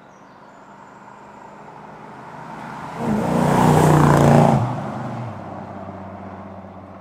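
1968 Dodge Charger R/T's 440 cubic inch V8 driving past. The engine note builds as the car approaches, is loudest about three to four and a half seconds in as it goes by, drops slightly in pitch, then fades as it drives away.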